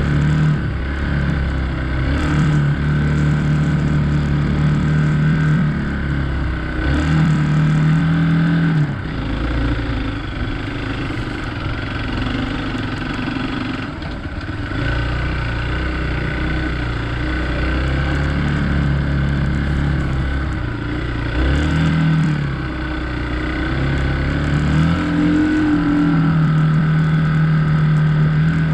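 Hero Xpulse 200's single-cylinder engine running under load off-road, revs holding for a few seconds, then dropping off and picking up again several times as the throttle is rolled off and opened.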